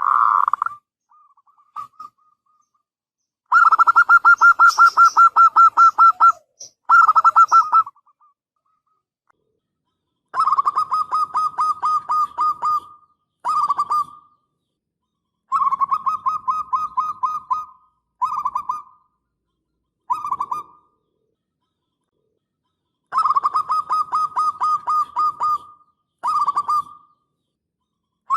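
Zebra dove (perkutut) cooing: a string of short phrases, each a fast run of rolling notes, some phrases longer than others, with pauses of a second or two between them.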